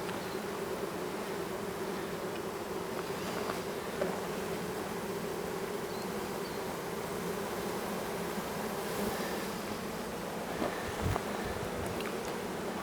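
A mass of honey bees from a swarm humming steadily, with a few light knocks near the middle and again near the end.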